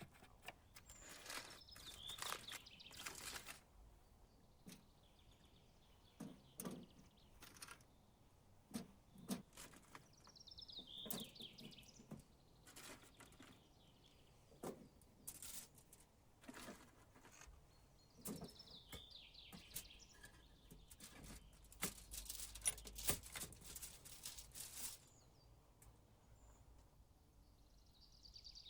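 A songbird singing a short falling phrase of chirps, repeated about every eight seconds, over scattered faint clicks and knocks that come thickest about three quarters of the way in.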